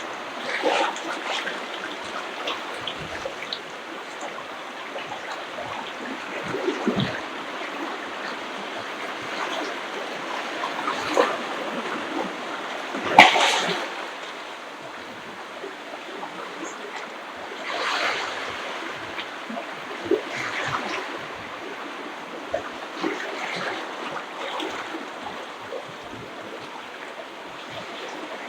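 Ocean waves washing and splashing on the beach, a steady rush of surf that swells as each wave comes in. The loudest wave crash comes about halfway through.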